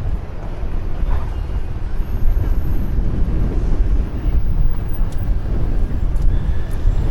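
Steady, loud low rumble of wind buffeting the microphone and bicycle road noise on a moving ride, with a few faint clicks about five and six seconds in.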